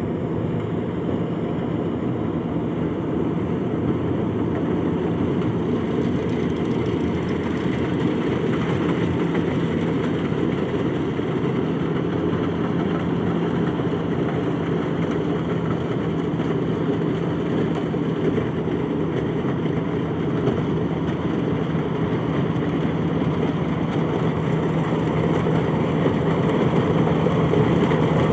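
Rice harvester running with a steady engine drone, growing slightly louder near the end.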